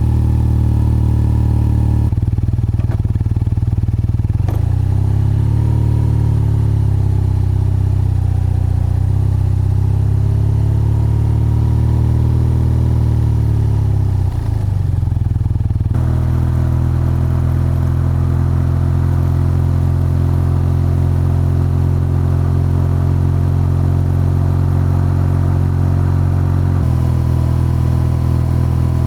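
BMW R12's boxer-twin engine and exhaust running. The note rises about five seconds in, holds, falls back around fourteen seconds, and then runs steady.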